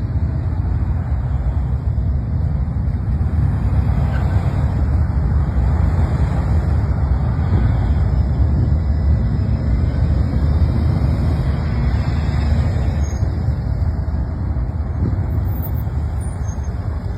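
Steady low rumble of a vehicle on the move, running evenly without changes in pitch.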